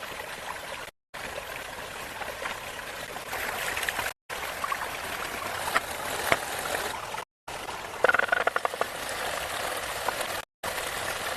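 Running water, heard in short segments that cut off abruptly, with a quick run of sharp clicks about eight seconds in.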